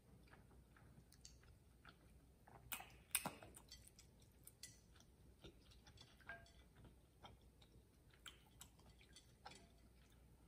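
Soft close-miked chewing of chewy rice cakes and glass noodles: a scatter of small wet mouth clicks, with a few sharper clicks about three seconds in.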